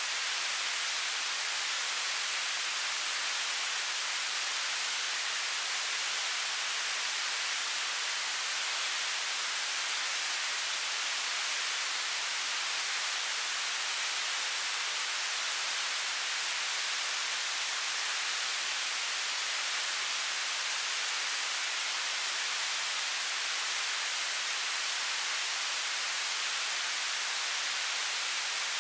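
Television static: a steady, unbroken hiss, bright and high with very little bass.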